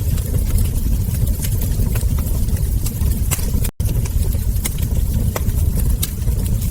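Wood fire burning, with irregular sharp crackles and ember pops over a steady low rumble. The sound cuts out for a split second a little past halfway.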